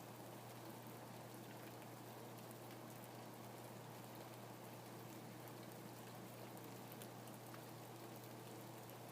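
Faint steady rain: an even hiss with many small drops ticking through it, over a low steady hum.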